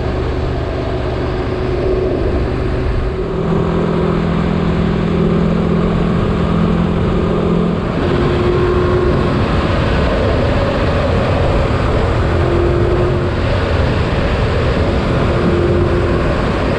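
Motorcycle riding along at speed, engine running steadily under constant road and wind noise, with the engine note changing a couple of times.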